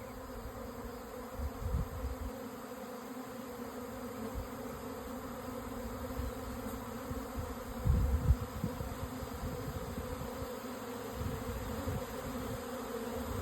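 A honey bee swarm buzzing: a steady, dense drone of many wings as the bees fly around and pile into a new hive box. A brief low rumble comes about eight seconds in.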